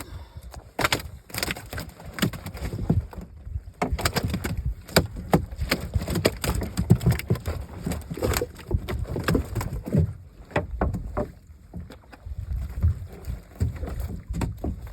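Irregular knocks, clatter and water sounds in a small fishing boat, over a low rumble.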